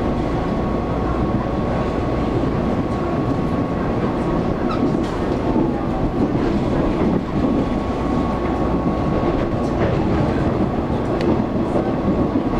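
Taiwan Railways local electric train running at speed, heard from inside the passenger car: a steady rumble of wheels on the rails with a constant high tone and a few faint clicks.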